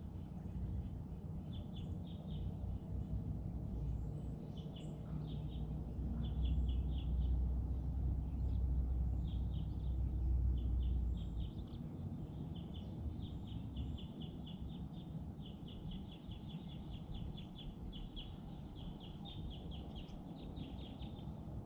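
Small birds chirping in quick runs of short, high notes throughout, over a low rumble that swells for a few seconds in the first half.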